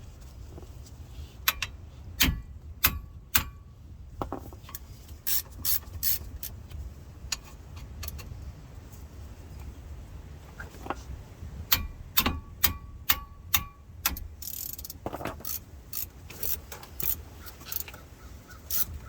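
Hand ratchet clicking in short runs, with sharp metal clinks, as the 18 mm brake caliper bracket bolts are backed out. A steady low rumble sits underneath.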